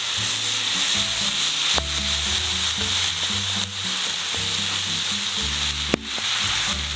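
Food sizzling steadily as it fries in a pan, with a couple of light clicks, over background music with low, stepping bass notes.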